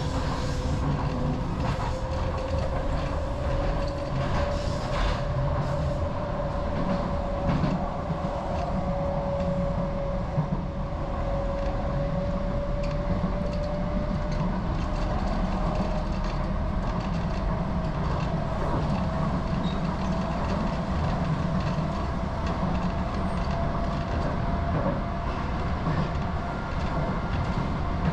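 Docklands Light Railway train running along the track: a steady rumble of wheels on rail, with a motor whine that slowly rises in pitch.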